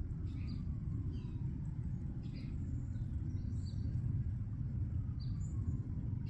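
Small songbirds at a backyard feeder giving scattered short chirps, over a steady low rumble of outdoor background noise that is the loudest part.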